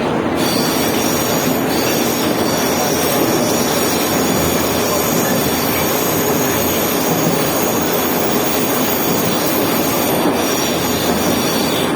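Metro train running on the Tashkent underground: a steady, loud rail noise with a high-pitched squeal of wheels on the rails.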